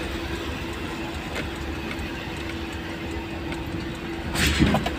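Steady mechanical hum of a running engine, holding one even tone over a background of noise, with a louder burst of clatter near the end.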